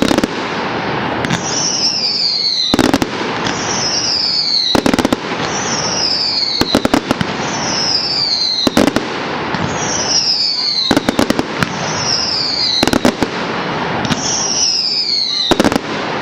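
Firework display: loud bangs about every two seconds, each followed by a whistle falling in pitch, over a constant crackle and rumble of bursting shells.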